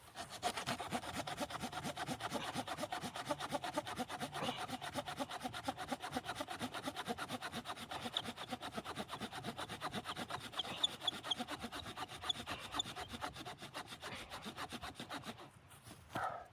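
Wood being cut with a hand saw in rapid, even back-and-forth strokes, stopping about a second before the end.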